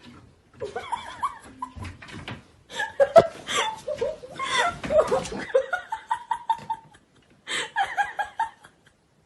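People laughing in several bursts, ending in runs of short repeated "ha-ha" notes.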